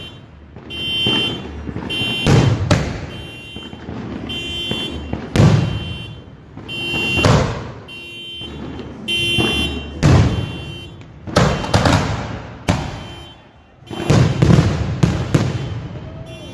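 3-inch salute shells from a 25-shot firework cake going off in sequence: about a dozen loud booms at uneven spacing, each echoing off surrounding buildings. A car alarm is wailing in the background between the booms.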